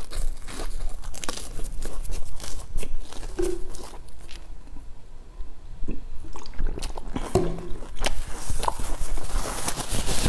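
Close-miked chewing and crunching of a crumb-topped bread bun, with many quick crunches and mouth sounds. The crunching thins out for a couple of seconds in the middle, while a drink is taken from a bottle, then comes back louder near the end.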